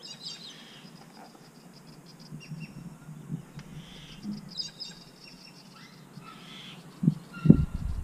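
Birds calling faintly in the background with short high chirps, then a couple of low thumps about seven seconds in.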